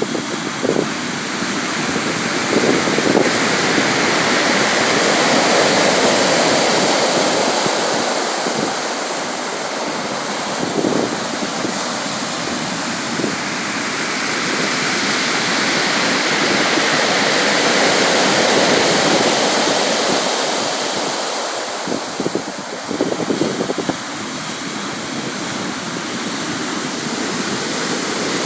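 Sea surf: a continuous rush of waves washing in, slowly swelling and fading twice, with a few brief sharper splashes.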